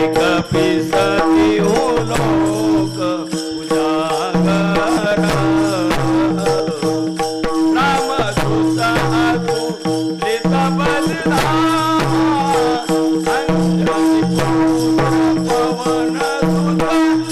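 Devotional kirtan music: a wavering melody over a steady drone, with percussion strokes keeping a regular beat.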